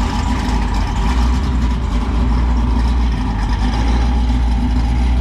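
Loud engine of a large vehicle running steadily, a deep, even rumble with no big change in revs.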